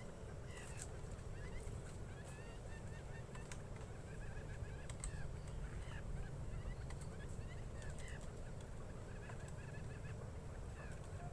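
Quail calling with many short, repeated chirps, over a steady low rumble.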